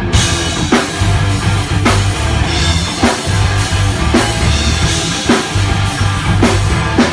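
Rock band playing live: a drum kit keeps a steady beat under bass and electric guitar, with no vocals.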